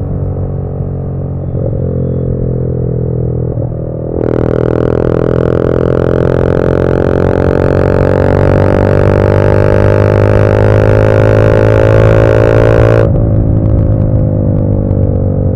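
TVS Apache RR 310's single-cylinder engine through an aftermarket SC Project short-can exhaust, heard on the move. About four seconds in it pulls harder and gets louder, its pitch climbing slowly for several seconds, then drops back near the end as the throttle eases.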